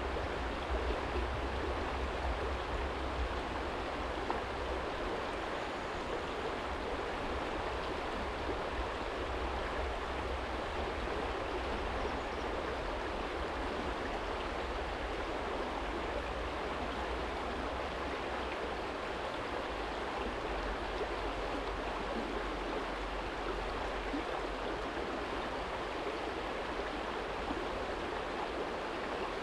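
Small stream flowing steadily over a stony bed, with a low rumble underneath from distant city traffic that is stronger in the first few seconds.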